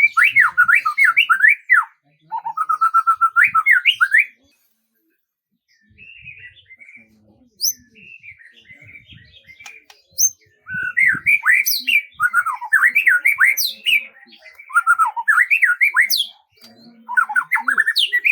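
A songbird singing long runs of rapid warbled notes that sweep quickly up and down in pitch. It pauses briefly about four seconds in, gives a few softer chirps, then sings long phrases again from about ten seconds in.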